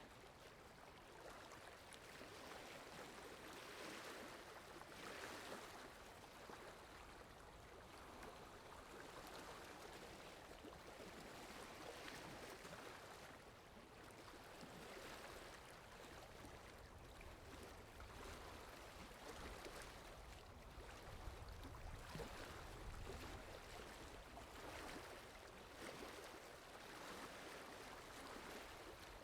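Faint, steady rush of running water, swelling and easing every second or two.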